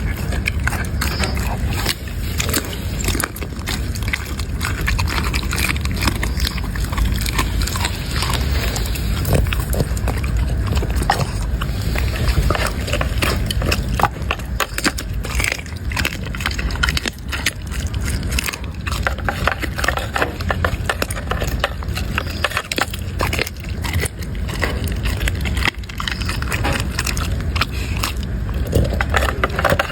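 A dog chewing and crunching food, with many irregular crunches and clicks over a steady low rumble.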